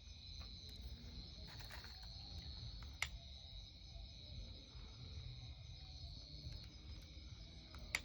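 Night insects, crickets, keep up a steady shrill chorus over a low rumble of wind on the microphone. Two sharp clicks come about three seconds in and again near the end.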